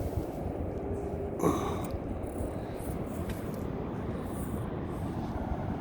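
Wind rumbling on the microphone, a steady low buffeting, with one brief short sound about a second and a half in.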